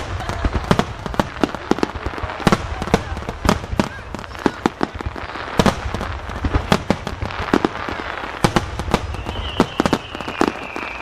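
Japanese aerial firework shells in a star-mine barrage: dense, overlapping booms and cracks, several a second, over a continuous rumble. Near the end a faint high whistle slides slightly downward.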